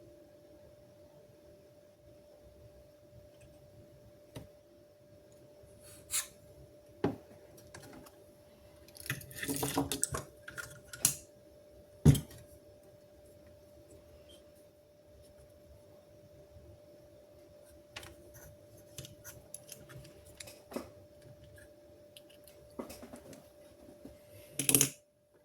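Scattered clicks, taps and knocks of small hard objects being handled on a work surface, with a busy cluster about ten seconds in and a sharp knock just after, over a steady faint hum.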